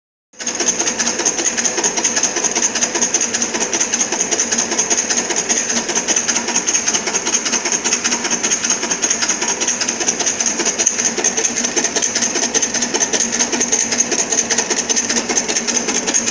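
A steady, rapid mechanical clatter that starts abruptly about half a second in and keeps going without a break, with a thin steady high tone over it.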